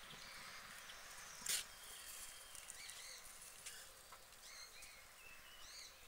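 Faint outdoor ambience with unseen birds giving short, high chirping calls, repeated from about three seconds in. One brief, sharp noise stands out about a second and a half in.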